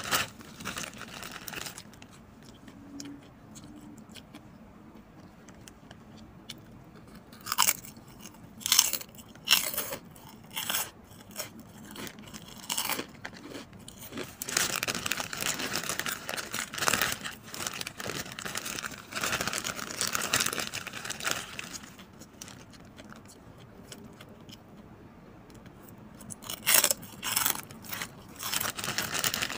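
Crunchy pork rinds (chicharon baboy) being bitten and chewed: a run of sharp, separate crunches, then a long stretch of steady crunchy chewing. A plastic bag crinkles at the start and again near the end.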